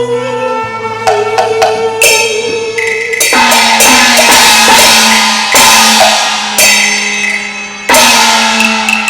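Instrumental passage of Cantonese opera-style accompaniment: held melodic tones under a run of loud, ringing percussion crashes, about one a second, starting about two seconds in.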